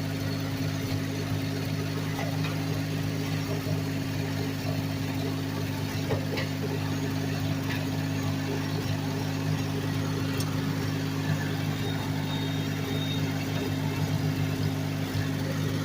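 A 1968 Ford 4000 tractor's three-cylinder gasoline engine running steadily at a constant speed, with its new stainless steel muffler.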